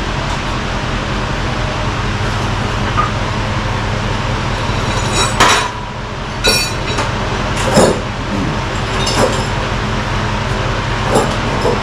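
A vehicle engine running steadily, with sharp metal clanks and rattles about five times.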